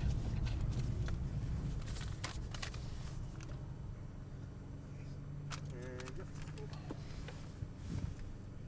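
Nissan GT-R's twin-turbo V6 idling low and steady, heard from inside the cabin, slowly getting quieter as the car rolls to a stop. There are a few faint clicks and a brief voice about six seconds in.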